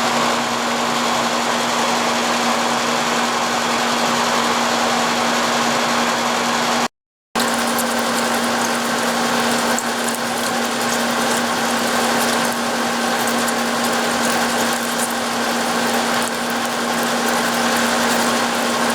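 Milling machine running a 4-inch shell mill through a skim cut across the face of an aluminum block at a slow feed of about an inch a minute. It gives a steady hum under an even hiss, which cuts out briefly about seven seconds in.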